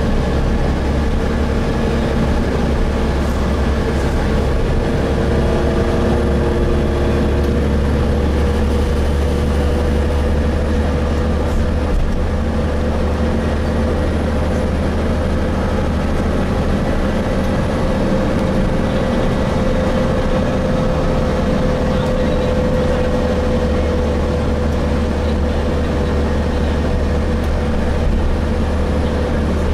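Inside a Gillig Phantom transit bus with a Voith transmission, running steadily under way. There is a constant deep engine and road rumble. A steady whine rises slightly about halfway through and then eases back.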